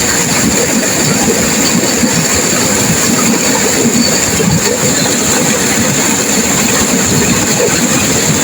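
Turbulent river water crashing and rushing in a loud, steady, unbroken roar.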